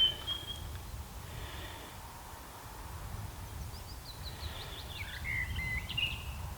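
Wild birds singing, a quick run of high chirps and whistled notes from about four seconds in to the end, over a steady low rumble of wind on the microphone. A single sharp click sounds right at the start.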